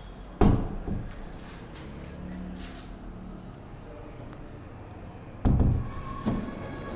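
Two loud heavy thumps about five seconds apart, each followed by a smaller knock.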